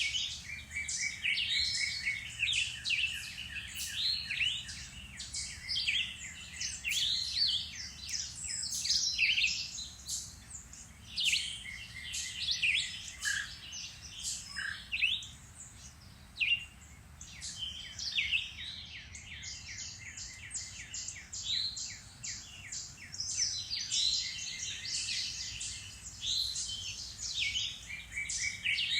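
Several songbirds singing and calling at once: a dense chorus of high chirps and rapid trills. It thins out for a few seconds in the middle before filling back in.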